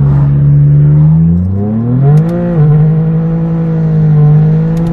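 BMW M4 F82's 3.0-litre twin-turbo inline-six through a straight-piped AWE track exhaust (no resonators), loud under acceleration. Its note rises in pitch between about one and two seconds in, then holds steady, falling away near the end.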